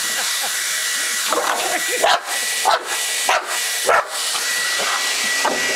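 An American Bulldog barking about six times at a hand-held blow dryer that runs steadily underneath with a continuous hiss and a thin whine.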